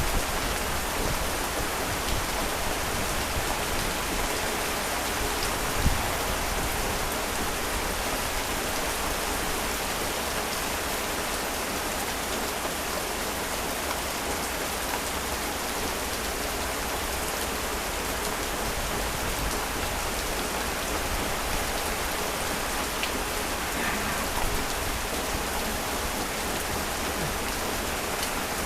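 Heavy rain falling steadily, a dense even hiss of drops. There is one short low thump about six seconds in.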